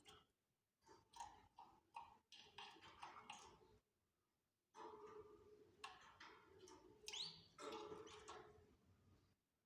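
Canaries chirping and twittering quietly in two short bouts, with clicks and quick rising whistles, the second starting about halfway through.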